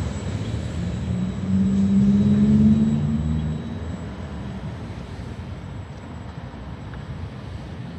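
Freight train wagons rolling away on the rails, a low rumble that slowly fades. About a second and a half in, a louder low drone swells for about two seconds, then dies back.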